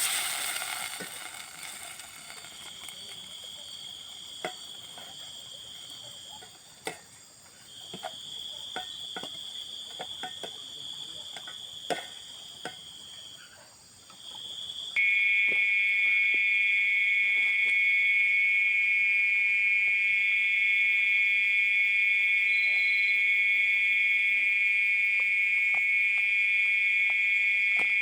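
Tropical forest insects calling: a steady high-pitched trill that stops and starts, then, after an abrupt change about halfway through, a louder, lower, unbroken insect drone. Light scattered clicks sound throughout.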